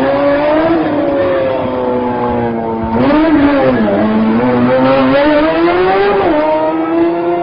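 Sport motorcycle engine revving up and down under stunt riding. The pitch wavers continuously, dips sharply about three seconds in, then climbs again.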